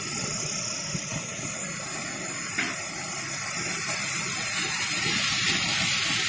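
Waterfall rushing steadily, the water noise growing louder and brighter about four seconds in.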